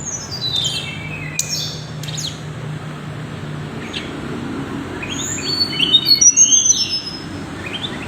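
Tickell's blue flycatcher singing high, clear whistled notes. A quick run steps down in pitch near the start, and short rising notes and higher whistles follow in the second half.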